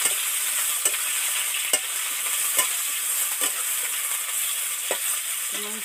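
Half-boiled raw jackfruit pieces sizzling in hot oil in a wok, stirred with a metal spatula that knocks against the pan roughly once a second.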